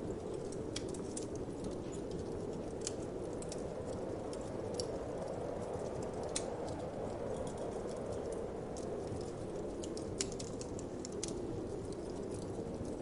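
Wood fire crackling, with irregular sharp pops and snaps scattered throughout, over a steady low whoosh of wind.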